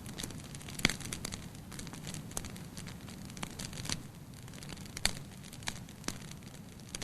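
Wood fire burning in a fireplace, crackling and popping irregularly over a low steady rush of flame, with sharper pops a little under a second in and about five seconds in.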